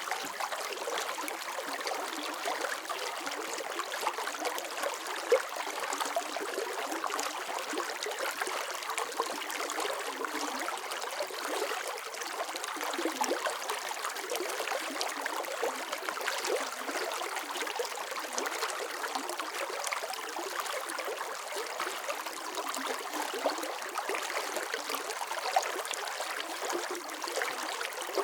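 Flowing water running steadily: an even rush flecked with small trickling splashes.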